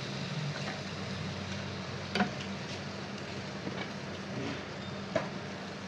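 Chicken frying in oil in a clay handi, a soft steady sizzle, with a couple of light knocks as tomatoes and green chillies are dropped in.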